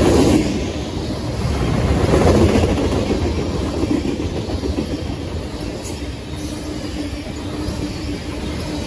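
Freight train of tank cars rolling past close by: a steady rumble of steel wheels on the rails, louder near the start and again about two seconds in.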